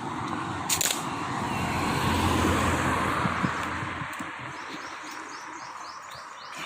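A vehicle passing by: a rumbling noise swells to a peak about two seconds in and fades away by about four seconds. A quick series of high chirps follows near the end.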